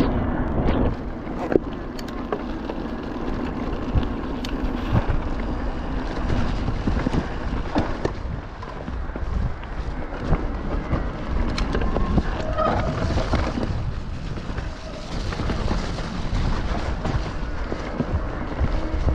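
Electric mountain bike riding over a wet, rough trail: wind buffeting the action camera's microphone over the rumble of the tyres in mud, with frequent knocks and rattles from the bike over bumps.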